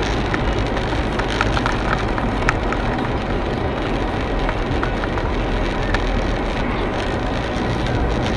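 Steady road and engine noise of a car on the move, with a few faint clicks.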